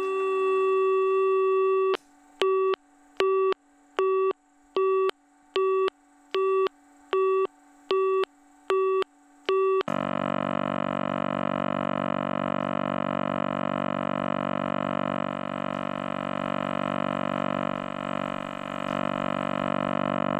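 Telephone exchange tones: a steady tone for about two seconds, then an engaged (busy) tone beeping on and off about one and a half times a second, about a dozen beeps, and from halfway on a steady, buzzy dial tone.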